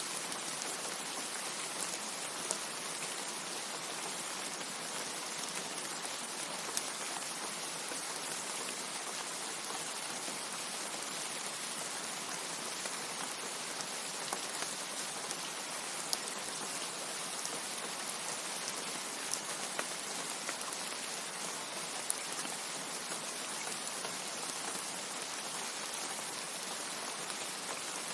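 Steady heavy rain falling, an even hiss with sharp individual drop taps scattered through it.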